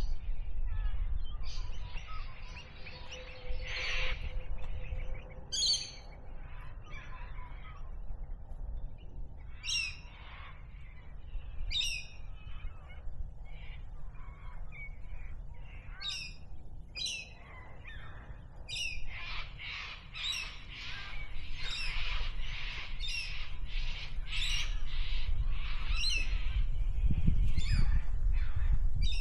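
Bush birds calling: separate sharp, repeated calls, then a dense overlapping chorus of calls through the later part. A low rumble runs underneath and grows louder near the end.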